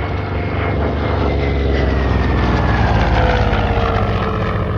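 Grumman F6F Hellcat's radial engine and propeller making a low pass. It grows loudest about three seconds in, and its pitch drops as it goes by.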